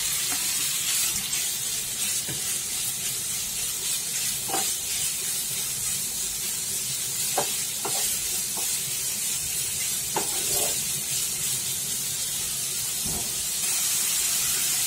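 Prawns sizzling in a little hot oil in a nonstick frying pan: a steady hiss, broken by a few knocks of the spatula against the pan as they are stirred.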